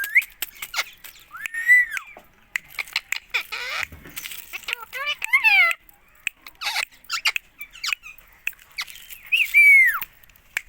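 Indian ringneck parakeet calling: a string of shrill squawks and squeaky chattering notes that bend up and down in pitch, with sharp clicks in between.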